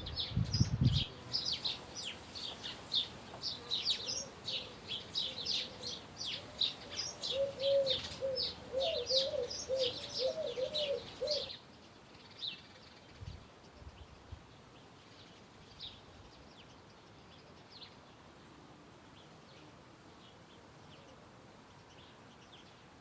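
Songbirds chirping and twittering in a busy chorus, with a lower warbling call joining for a few seconds; about halfway through the chorus cuts off suddenly, leaving only faint, scattered distant chirps.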